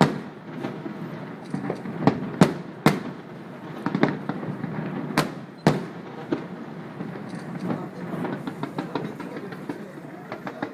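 Fireworks bursting: loud single bangs at irregular intervals, then a rapid run of crackling from about eight seconds in.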